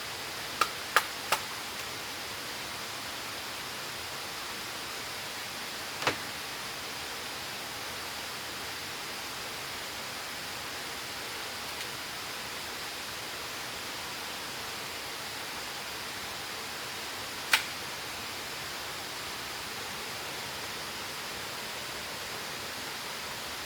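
Steady rush of a waterfall, broken by a few sharp knocks: three quick ones about a second in, one about six seconds in, and one more well after the middle.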